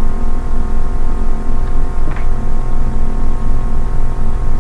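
A steady low hum with several steady tones held together, loud and unchanging through the pause, with a faint brief sound about two seconds in.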